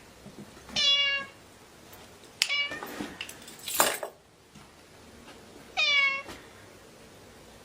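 A domestic cat meowing three times in short, pitched calls, each bending slightly down in pitch at the end. A brief noisy rush sounds between the second and third meow.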